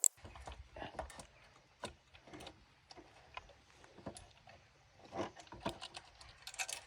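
Scattered metal clinks and knocks of hand tools and bolts as the engine is unbolted and taken out of a pocket bike's frame, at an irregular pace with a few louder knocks.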